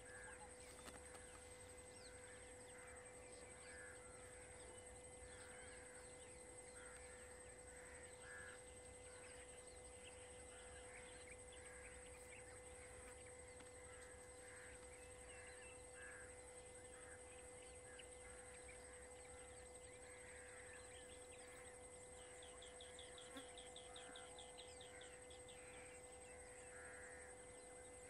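Faint forest ambience: short bird calls repeating about once a second over a steady high hum, with a quick rattling trill a little past the twenty-second mark.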